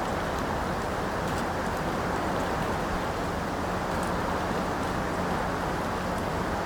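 Steady rain, an even wash of noise with faint scattered ticks of drops.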